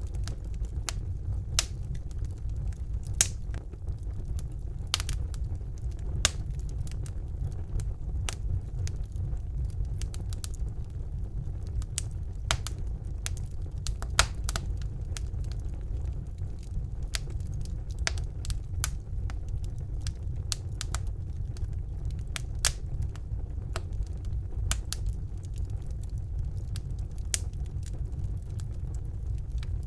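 Wood fire burning in a fireplace: a steady low rumble of the flames with irregular crackles and sharp pops from the burning logs, a few of them louder.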